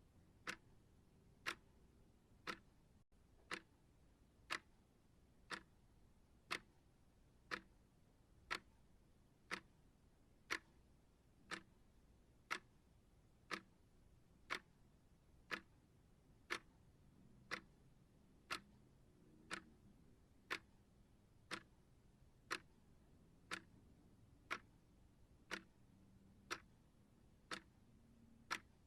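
Clock ticking at a steady pace of one sharp tick a second.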